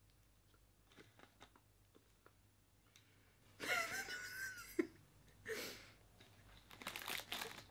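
A person chewing a mouthful of chocolate sponge cake with closed lips, faint mouth clicks only. About halfway through come short muffled noises through the nose, like stifled laughter, and near the end a crinkle of the plastic packaging tray.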